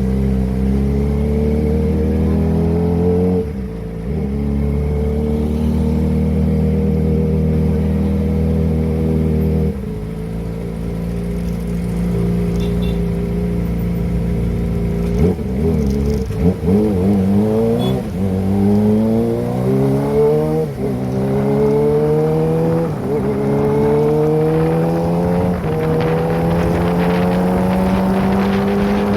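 Kawasaki ZX-25R's 250 cc inline-four through a Prospeed aftermarket exhaust, underway. It holds fairly steady revs at first, then accelerates through several gears in the second half, the pitch climbing in each gear and dropping back at each upshift.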